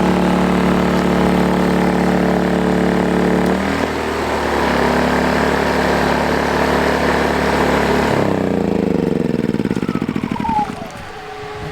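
WEN 2000-watt portable generator engine running steadily, its pitch shifting briefly about four seconds in; about eight seconds in it is switched off and winds down in pitch to a stop over a couple of seconds, leaving the steady hum of a 12-volt rooftop air conditioner's fan.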